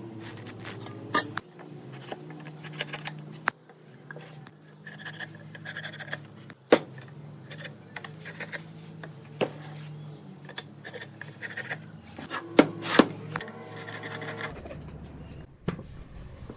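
Hand work on wood: irregular knocks and taps, with some rubbing or scraping in between. The loudest knocks come about a third of the way in and again near the end.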